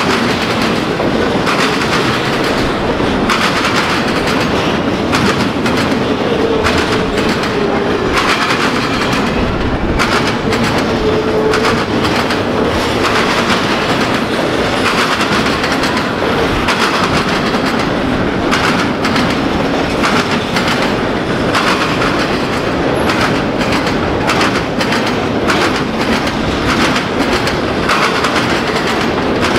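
Double-stack intermodal train's well cars rolling past: steel wheels rumbling and clicking over the rails in a steady, loud stream of noise.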